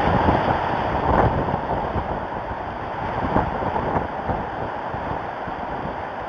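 Strong wind gusting over the nest camera's outdoor microphone, a rushing buffet that eases slightly in the second half.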